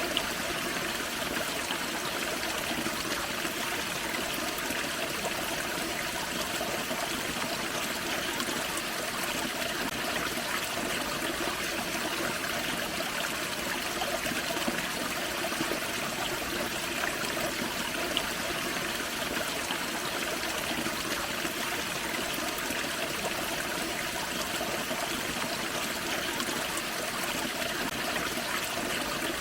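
Small waterfall in a forest creek, water splashing and trickling steadily over rocks.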